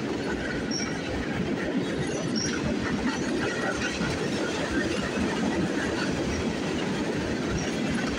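Freight train's hopper cars rolling past at speed: a steady rumble with the wheels clattering over the rails.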